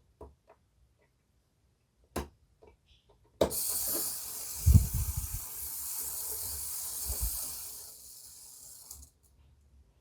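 Tiny T-gauge model train running on its track, a steady high hiss from its miniature motor that starts suddenly after a click and stops near the end, with a few low knocks under it.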